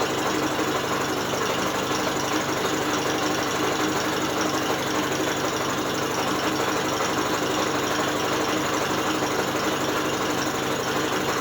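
British Seagull outboard motor being spun by an electric drill: the drill motor and the outboard's turning internals run together at a steady speed, making an even mechanical whirr.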